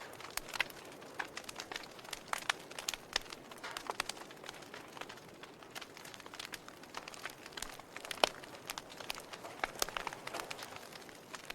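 Logs burning in a fireplace, crackling and popping in an irregular stream of small snaps over a low hiss, with one sharper pop about eight seconds in.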